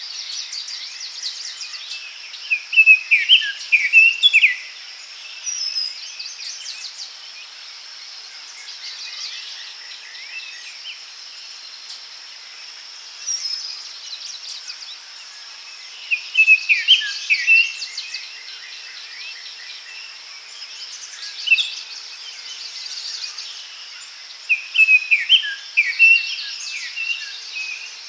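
Daytime forest ambience: songbirds singing in short bursts of chirps and trills, four spells in all, over a steady high-pitched insect drone.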